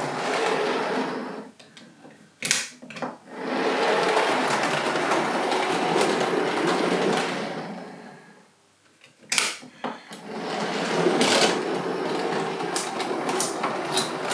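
OO-gauge Bachmann Class A2 4-6-2 model locomotive running on model track in three stretches, stopping twice, with a few sharp clicks in the pauses. It is being run through Peco setrack points, where it derails when reversing.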